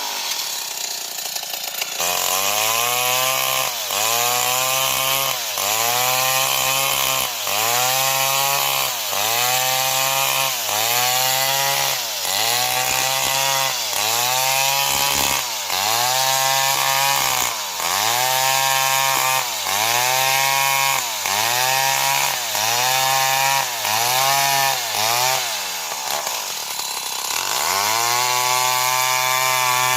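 Old Stihl 070 two-stroke chainsaw cutting wood. Its engine pitch rises, holds and dips again about every second and a half. Near the end it drops low, then climbs back to a steady high pitch.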